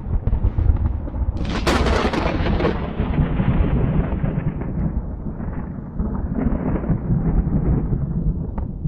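Thunder: a sharp crack about a second and a half in, followed by a long, low rolling rumble.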